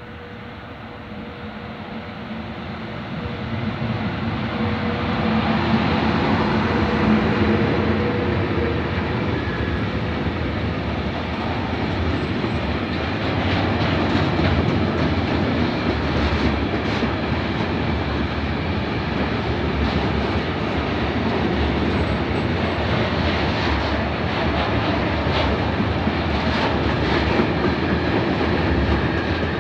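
Freight train of tank wagons passing close by: a rolling rumble that builds over the first few seconds and then holds steady, with a steady tone over roughly the first eight seconds and later bunches of sharp clicks as the wagon wheels cross rail joints.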